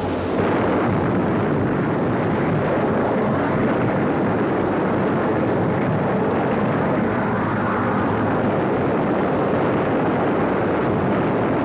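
Steady, loud aircraft engine drone on an old documentary soundtrack.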